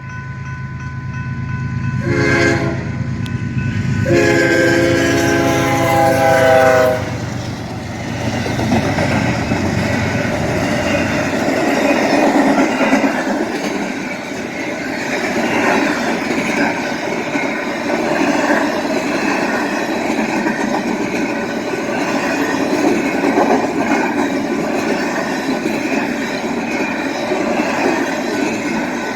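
BNSF freight train passing close by: diesel locomotive rumble with a short horn blast about two seconds in and a longer blast ending about seven seconds in, then the cars rolling past with steady wheel-on-rail noise.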